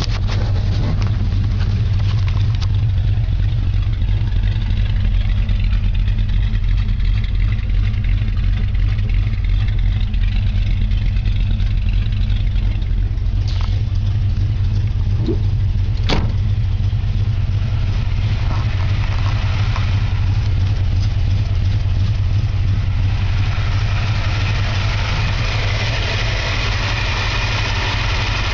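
1964½ Ford Mustang engine idling steadily while it warms up after a cold start, heard from inside the cabin. A couple of short clicks come about halfway through.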